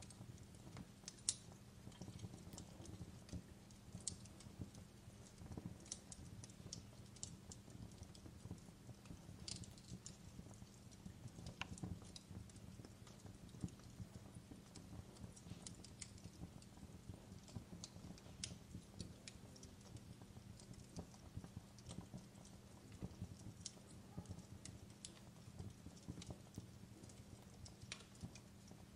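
Faint fireplace crackling: a wood fire popping and snapping in irregular sharp clicks over a low steady hum.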